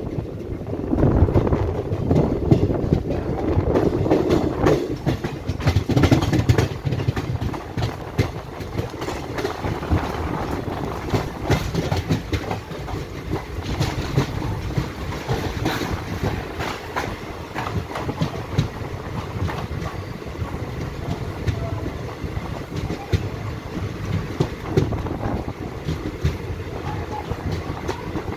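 Passenger train running, heard from an open coach doorway: a steady rumble of steel wheels on rail with a continual rattle of clicks and knocks over the rail joints.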